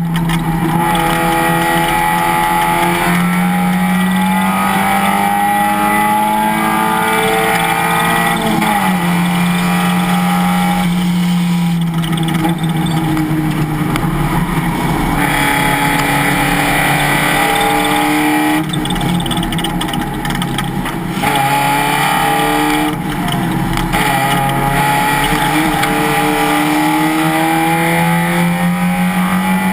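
Race car engine running at race pace, its note rising and falling steadily with throttle and gear changes. A few brief dips as the throttle is lifted come about two-thirds of the way through.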